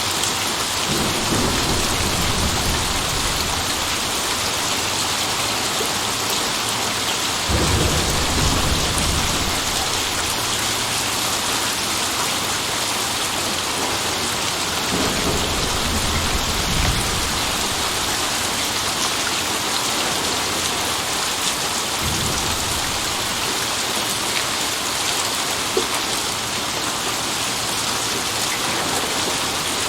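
Steady heavy rain with thunder rumbling low in the background several times, the strongest roll about a third of the way in.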